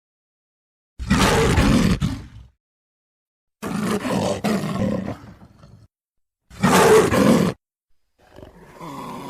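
Three separate big-cat roar sound effects, each a second or two long, with dead silence between them; a quieter, steadier growl begins near the end.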